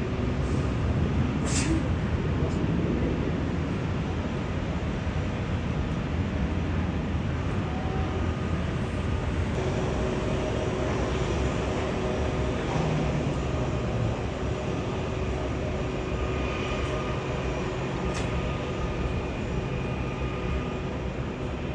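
Steady rumble of a moving vehicle, with a few faint held whining tones above it.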